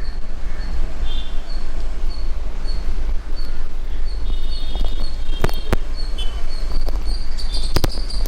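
Street ambience from a moving bicycle: a steady low wind rumble on the microphone, a faint high tick about twice a second, and a few sharp crackles from radio interference in the GoPro's media mod. Brief high chirps come through twice.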